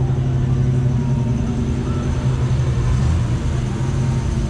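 A car engine idling steadily with a low, even rumble, its pitch shifting slightly about three seconds in.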